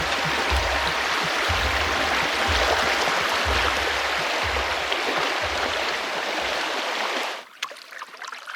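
Rushing water of a flood-swollen river, a steady loud rush that falls away abruptly about seven seconds in, with dull low thumps under it.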